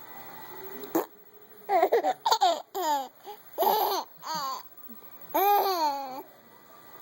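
A young child laughing in quick high-pitched bursts, then a longer rising and falling squeal of laughter near the end. A short click about a second in.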